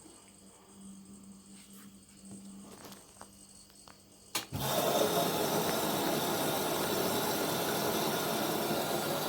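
LG front-loading washing machine starting a wash: a few seconds of faint humming and small clicks, then a click as the water inlet opens and water rushes steadily into the machine, beginning to dissolve the citric acid for a descaling cycle.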